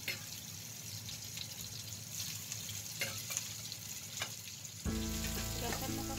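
Food sizzling as it fries in a wok, with a few sharp clicks of a metal spatula. Music with held notes comes in near the end.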